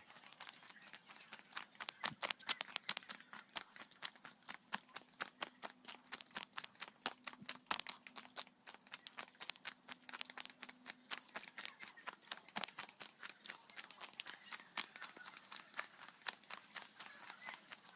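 Footsteps walking along a footpath: a quick, irregular run of short sharp steps and scuffs. A faint steady hum sounds under them from about two seconds in until past the middle.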